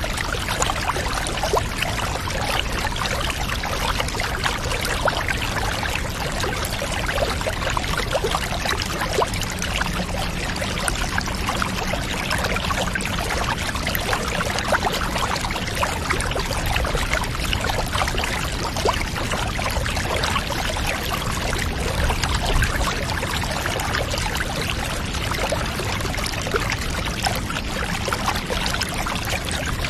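Water pouring steadily with fine splashing, like a tap running into a bath.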